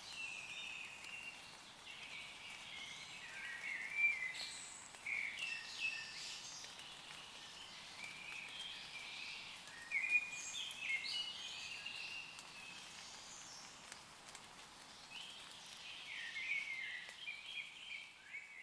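Woodland birds singing in bouts of short, varied phrases every few seconds over a faint, steady hiss of light rain on leaves.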